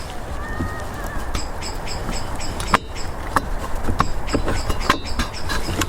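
Scattered small clicks and taps of hands working the hedge trimmer's piston and ring into the cylinder, over a steady low rumble, with a brief high chirp about half a second in.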